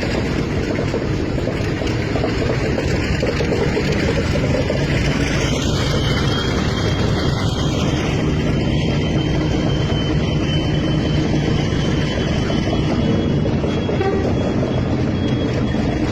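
Heavy engine running steadily, a low even drone under a dense haze of noise. A faint thin whine sits high above it from about six seconds in.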